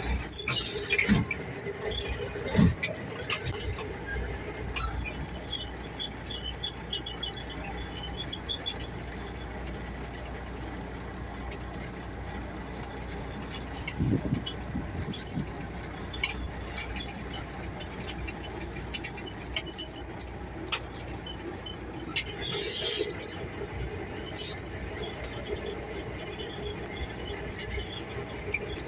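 Heavy training truck running with a steady low rumble, with scattered clicks and brief high squeals about a second in and again near 23 seconds.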